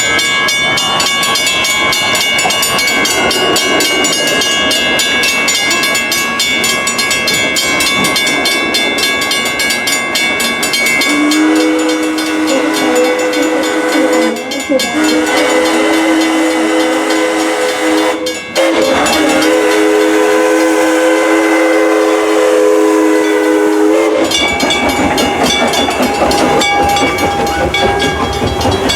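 Steam locomotive of an amusement-park railroad running, with a steam whistle sounded in one long blast through the middle, broken twice, under a steady hiss of steam.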